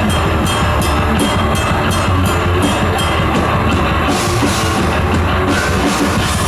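Thrash metal band playing live at full volume: distorted guitars, bass and drum kit, with fast, regular cymbal hits and a crash cymbal wash about four seconds in.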